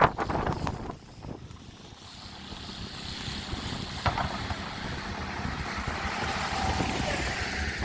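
A motor vehicle's engine and tyres, the sound swelling steadily over several seconds as it draws nearer, on a snow-covered road.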